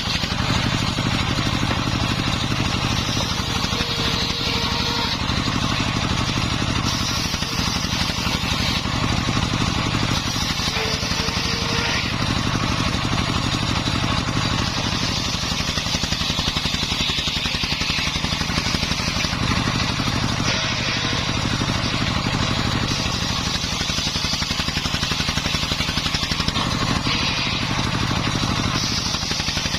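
Single-cylinder Dongfeng 24 hp diesel engine running steadily, driving a homemade circular saw ripping wood. A higher cutting hiss rises and falls every few seconds as the blade goes through the timber.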